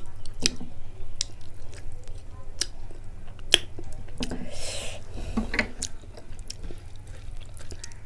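Close-miked chewing with wet mouth clicks and smacks, from a mouthful of rice and sour raw-mango dal, along with soft squishing as fingers mix rice on the plate.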